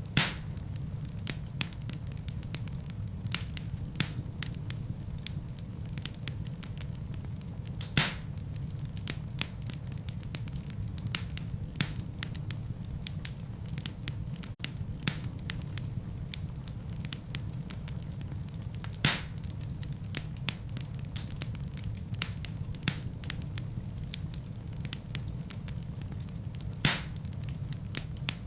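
Wood fire crackling in a fireplace: a steady low rumble of flames with frequent small crackles and a handful of sharper, louder pops spread through.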